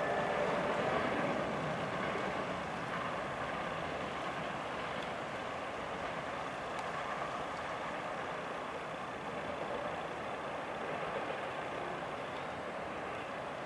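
Autorack freight train rolling past, a steady noise of steel wheels running on the rails.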